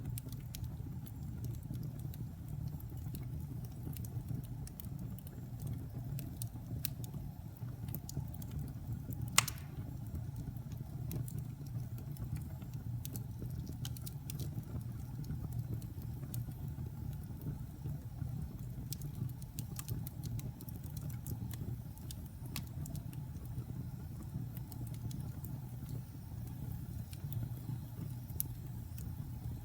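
Log fire burning: a steady low rumble of the flames with scattered crackles and small pops, and one sharp, louder pop about nine seconds in.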